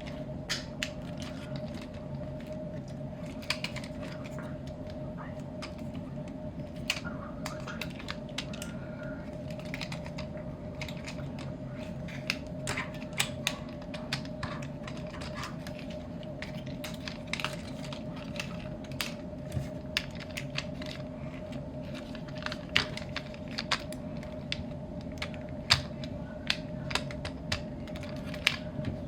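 Hard plastic parts of a Transformers action figure clicking and snapping as it is handled and transformed. The small clicks are scattered irregularly throughout, over a steady hum.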